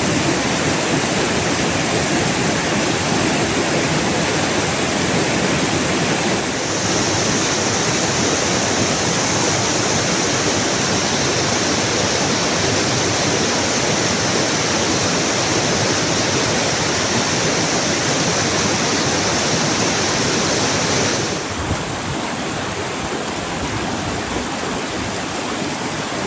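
Rushing water, a loud steady hiss like a fast mountain stream. It turns hissier about six seconds in and drops a little in level about 21 seconds in.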